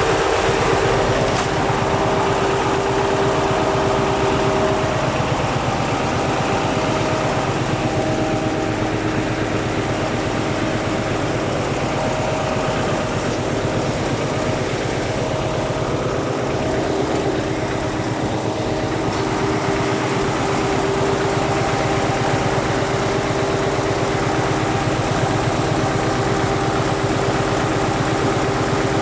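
8DVT-330 V8 turbo diesel engine running steadily at a constant speed, with a steady high whine over the engine note.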